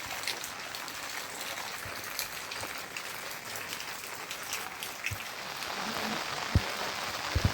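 Steady rain falling, a dense patter of drops with scattered sharper ticks. A few heavier low thuds come near the end.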